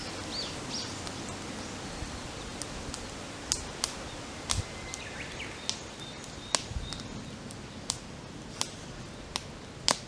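Wood campfire crackling, with irregular sharp pops, the loudest near the end. Birds call faintly in the background, chirping early on and again mid-way.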